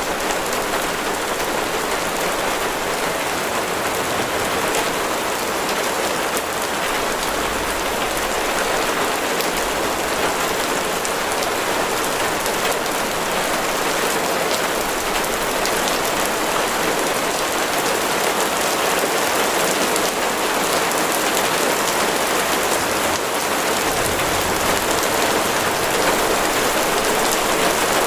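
Heavy rain falling steadily on a surface: a dense, even hiss of drops with fine individual drop ticks throughout.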